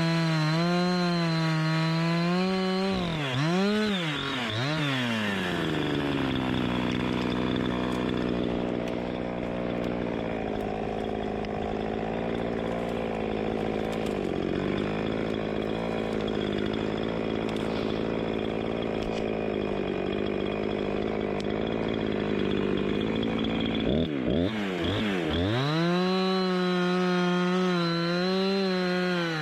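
Chainsaw running at high revs. About three seconds in, its pitch drops as it bites into the wood, and it runs steadily under load with a sawing noise. Around 24 seconds the pitch dips again and it goes back to revving freely, wavering.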